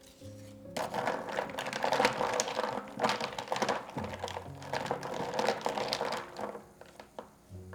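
A dense crackling, rustling handling noise full of small clicks starts about a second in and stops near the end. Soft background music with held notes plays underneath.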